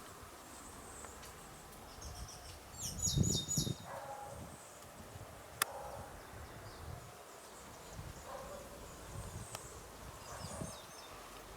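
A small bird chirping: a quick run of four high chirps about three seconds in, then fainter chirps near the end. A single sharp click is heard midway.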